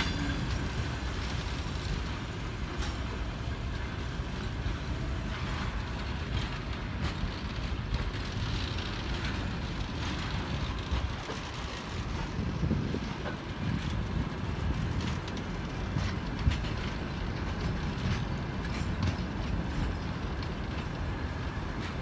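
Passenger train coaches rolling past on the track: a steady rumble of wheels on rails, with scattered clicks and knocks as the wheels cross rail joints, one sharper knock near the end.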